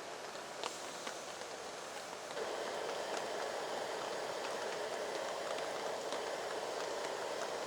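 Heavy rain falling steadily, with scattered sharp drop clicks; it gets louder about two and a half seconds in.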